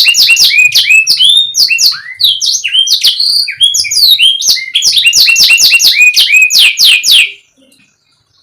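Domestic canary singing a loud, fast song of repeated down-sweeping whistled notes and trills, which stops abruptly about seven seconds in.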